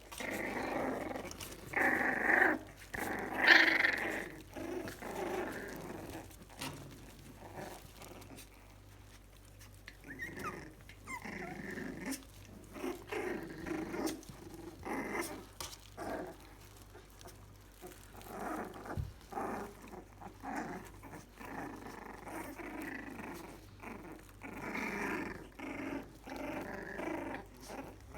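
Jack Russell terrier puppies play-fighting, growling in repeated short bursts, loudest a few seconds in.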